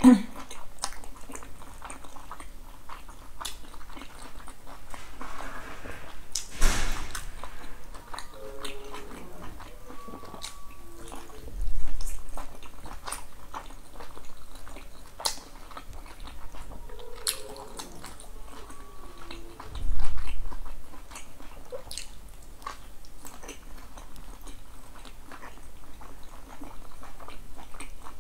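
Close-up mouth sounds of a person eating boiled dumplings: chewing with many small wet clicks and smacks. Two louder, dull thumps come about 12 and 20 seconds in.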